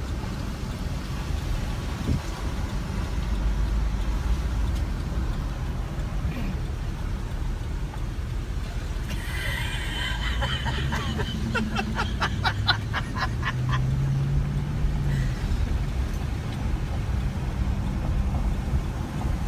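Vehicle driving, with a steady low road-and-engine rumble throughout. About ten seconds in comes a rapid run of short, evenly spaced high ticks lasting roughly three seconds.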